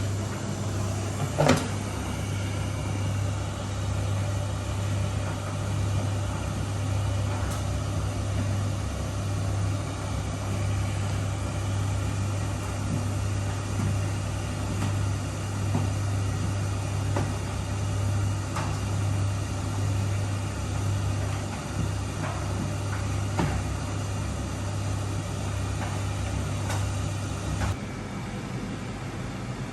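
Miele W1 washing machine running with a steady low hum and a few light knocks from the drum and its load. The hum cuts off suddenly near the end.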